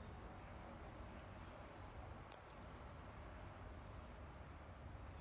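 Faint steady outdoor background noise with a low rumble and a few faint ticks.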